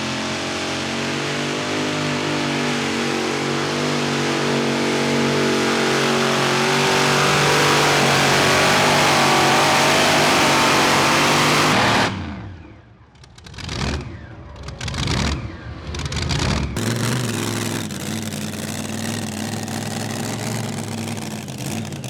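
Pulling tractor's engine at full throttle during a pull, getting louder over about twelve seconds, then cut back sharply. A few short revs follow, and it settles to a lower steady run as the pull ends.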